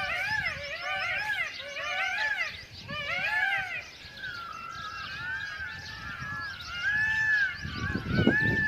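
A flock of birds calling together: many overlapping, repeated, arching calls. A low thud comes near the end.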